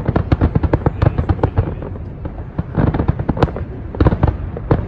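Fireworks display: a dense run of sharp bangs from bursting shells, several a second, thinning briefly about two seconds in before picking up again.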